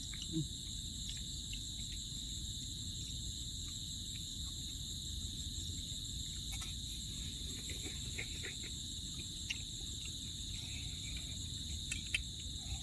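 Steady chorus of crickets, a continuous high trill, over a low steady rumble, with a few faint clicks.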